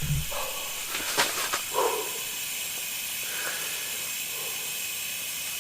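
Steady hiss of propane gas flowing from a portable cooker's burner as it is being lit, with a few faint knocks and clicks.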